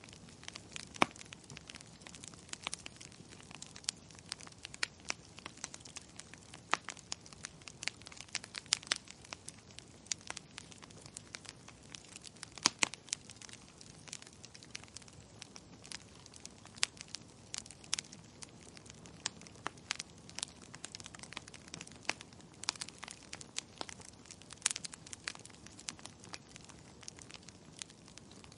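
Wood fire crackling in a fireplace: irregular sharp pops and snaps, some much louder than others, over a faint steady hiss.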